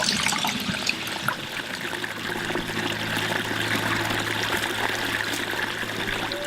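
Stream trickling and splashing over rocks in a steady rush of water. A low steady hum joins in about two seconds in.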